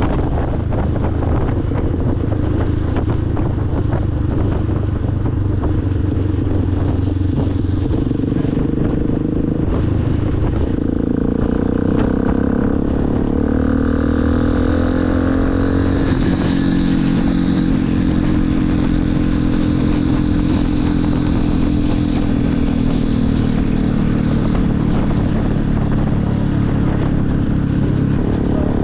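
Motorcycle engine running while riding, with wind and road noise. About ten seconds in, the engine note rises as it accelerates, then holds steady.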